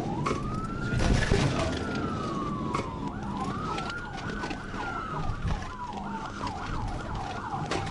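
Police car siren wailing in slow rising and falling sweeps, with a faster yelping siren tone alongside. Steady road and engine noise from the moving patrol car runs underneath.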